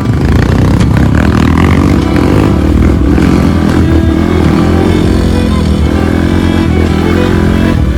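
Trail motorcycle engine running steadily and loud while riding an off-road track.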